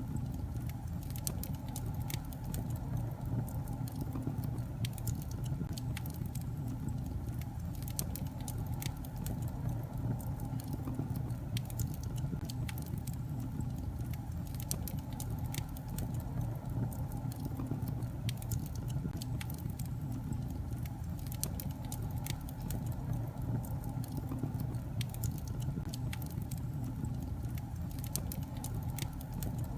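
Wood fire burning in a fireplace: a steady low rumble of flames with constant crackling, many small sharp pops scattered throughout.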